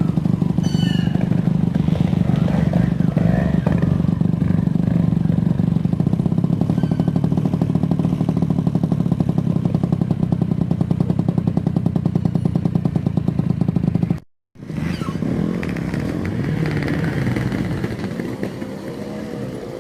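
Trials motorcycle engine running steadily at low revs, with a fast even pulse. About two-thirds of the way through the sound cuts out for a moment, then motorcycle engine sound goes on more quietly, with some rising and falling revs.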